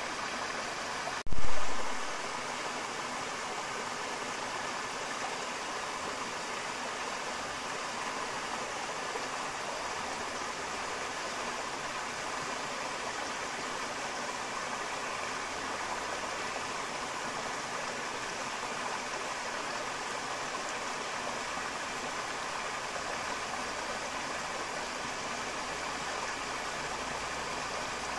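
Forest river flowing steadily. One loud, sharp thump about a second in, dying away quickly.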